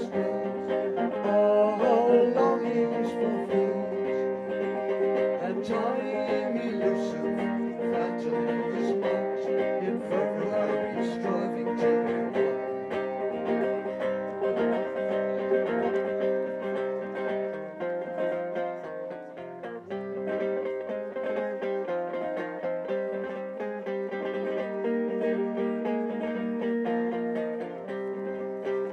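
Live acoustic band music: a plucked-string instrumental passage led by guitar, with sustained chords and a picked melody, no singing.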